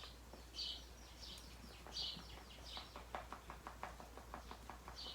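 Faint short high chirps of a small bird, one every second or so, with a run of light quick clicks from about three seconds in.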